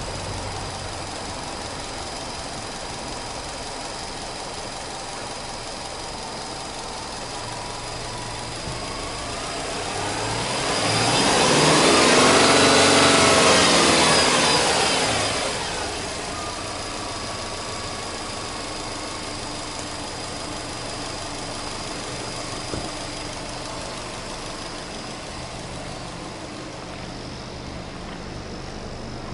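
Subaru Legacy Touring Wagon 2.0 GT's turbocharged EJ20 flat-four engine idling, then free-revved once: the pitch climbs from about nine seconds in, holds high for a few seconds and falls back to a steady idle about sixteen seconds in.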